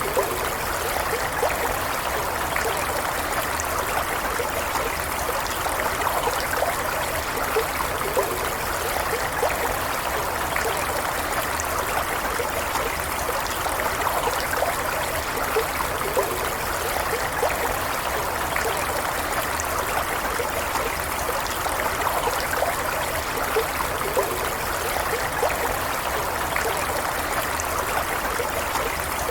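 Stream water flowing steadily, an even rushing with small trickling and gurgling flickers throughout.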